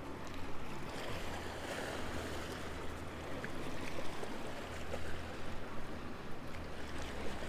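River water lapping against a fishing boat's hull, with wind noise and a low steady hum underneath.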